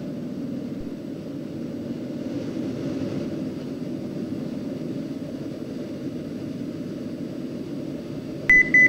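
Steady drone of a turbocharged Cessna 206's engine and propeller in the climb. Near the end a rapid series of high, short beeps starts from the cockpit avionics, which the pilot reads as 1,000 feet to go to the selected altitude.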